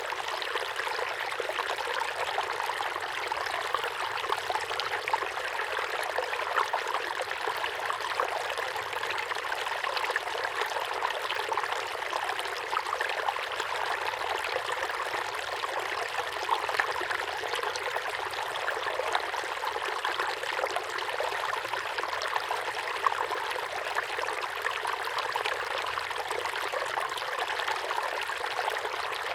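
Small waterfall pouring steadily into a pond: a continuous splashing and trickling with no pauses.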